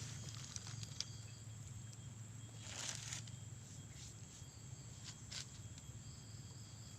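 Insects trilling steadily in the background, with a short rustle about three seconds in and a few faint clicks.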